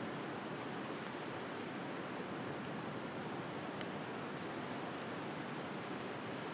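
Steady wash of ocean surf, with a few faint crackles and pops from a burning wood fire.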